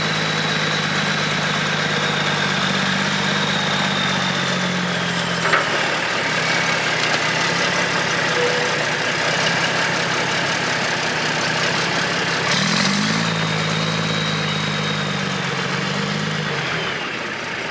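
Mack R600 truck's diesel engine held at raised revs for the tipper hoist, with a high whine that sinks as the revs drop back about five seconds in. The engine revs up again about thirteen seconds in and settles back shortly before the end, as the body is tipped to unload.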